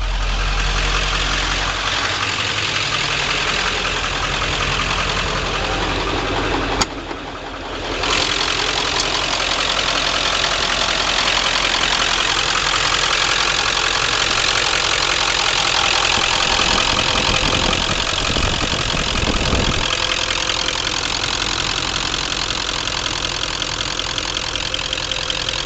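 Ford Power Stroke diesel engine idling steadily, with a brief drop-out about seven seconds in.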